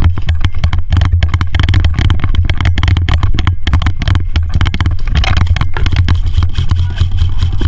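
Airsoft electric gun firing full auto close to the microphone: a sustained, loud, buzzing rattle of rapid shots over the low hum of the gearbox motor, with hardly a break.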